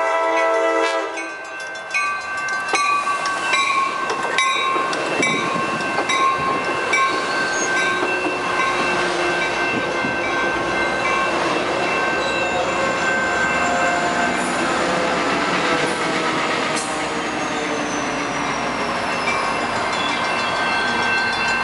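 Coaster commuter train sounding its horn, a chord that cuts off about a second in, then running past close by: a steady rumble of wheels on rails with rapid clicking over the rail joints.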